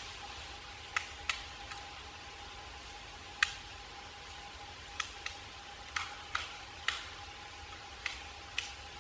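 Black woodpecker pecking at tree bark: single sharp knocks at an uneven pace, about a dozen of them, some close together and some a second or more apart.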